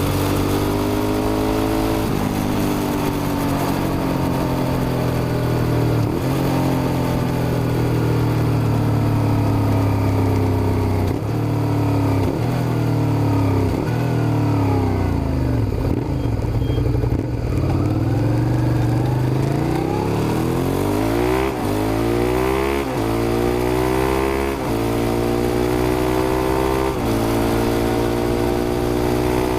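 Suzuki SV650's V-twin engine under way. It holds fairly steady with a couple of gear changes, drops in pitch through the middle as the bike slows, then revs up through several quick upshifts in the second half.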